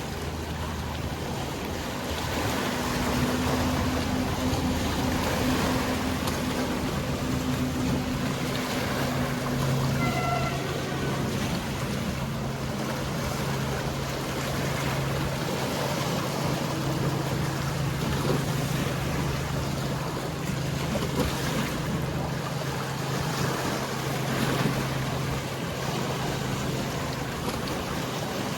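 A boat's engine holds a steady low hum over the wash of sea waves. A second, higher engine tone runs alongside for the first ten seconds or so, and a brief high note sounds about ten seconds in.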